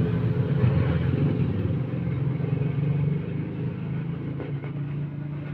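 A motor vehicle engine running steadily, slowly fading from about halfway through.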